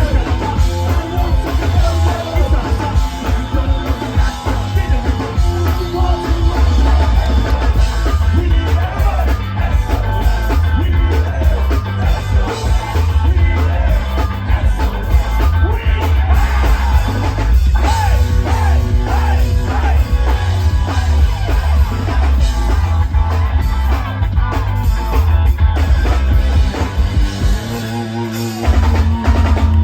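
Ska-punk band playing live at full volume: drum kit, heavy bass and a singer, with the bass dropping out briefly near the end.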